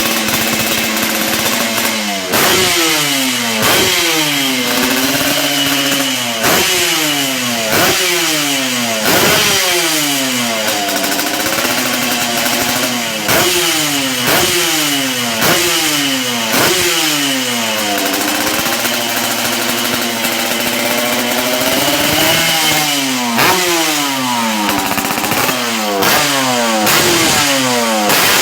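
Two-stroke motorcycle engine, a Yamaha RX-King type, revved again and again through an aftermarket racing exhaust. Quick throttle blips rise and fall in pitch about once a second, with a few longer held revs in between.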